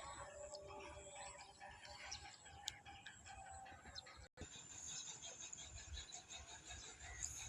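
Faint outdoor ambience: scattered bird calls and a steady high insect trill, with a low rumble underneath. The sound cuts out completely for a moment a little past four seconds.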